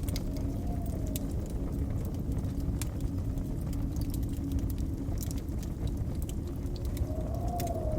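Wood fire crackling with scattered sharp pops over the steady low rumble of blizzard wind. The wind whistles briefly in a rising-then-falling tone near the start and again near the end.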